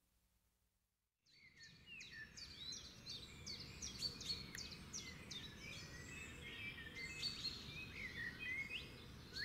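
Silence for about a second and a half, then several wild birds chirping and singing in quick short notes over a faint steady background hiss.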